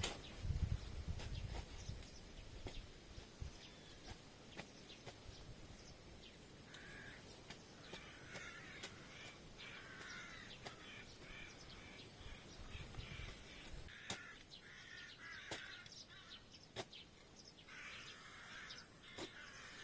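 Crows cawing faintly in several bursts of calls, with scattered sharp clicks and a few low thuds.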